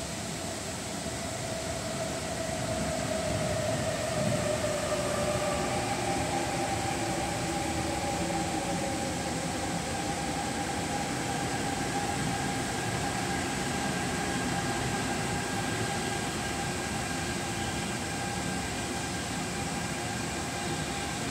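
ADtranz-CAF Airport Express electric train running into the platform and slowing down, wheels rumbling on the rails. A whine falls in pitch over the first few seconds, then several steadier whining tones carry on as the train decelerates.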